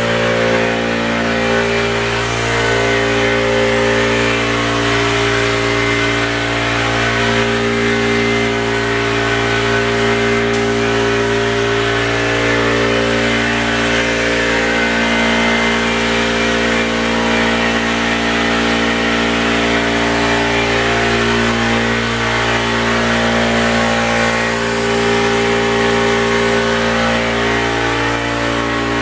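Air compressor running steadily under load, with the continuous hiss of an air spray gun laying on paint.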